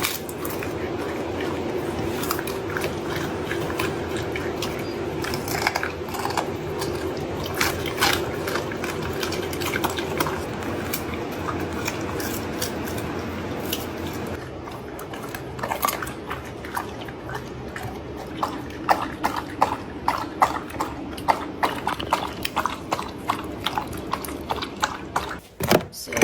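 A dog eating its meal of chopped meat and vegetables from a bowl: wet chewing and biting, with a rapid run of short clicky chews in the second half.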